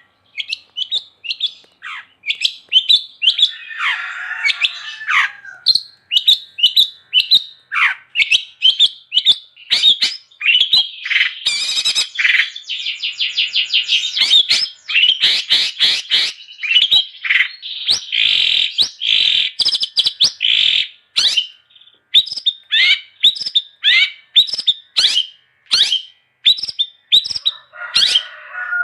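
Long-tailed shrike (cendet) singing vigorously without pause: a rapid stream of sharp chirps and down-slurred whistles. Harsh scratchy notes come in about four seconds in and again near the end, and a dense run of very fast notes fills the middle.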